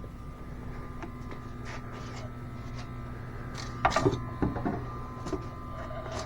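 Autoline Pro smoke machine's pump running with a steady hum and faint whine while it pushes smoke into the EVAP system. A few knocks and rattles about four seconds in.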